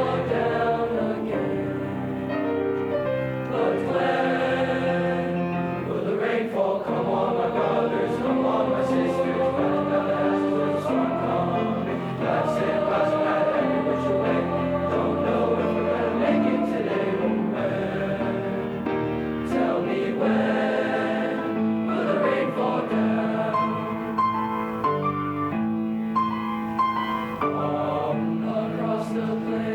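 Eighth-grade bass choir singing a song in harmony, with sustained, chord-like sung notes.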